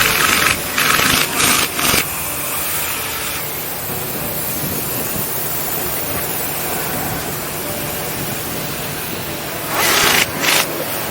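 Assembly-shop machinery noise: a steady low hum under a constant hiss, with several short, loud bursts of hissing in the first two seconds and twice more near the end.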